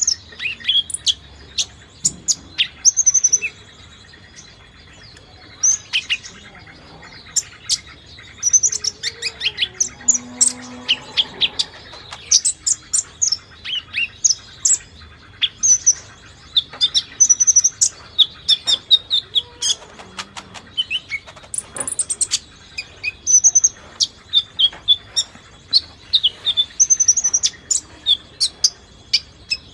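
Konin songbird singing: rapid, sharp high chirps and short whistled notes in quick bursts, repeated again and again.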